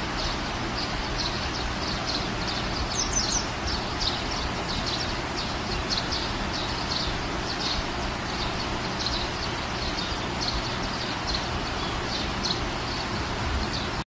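Birds chirping over and over against a steady outdoor hiss, with a few quick falling calls about three seconds in.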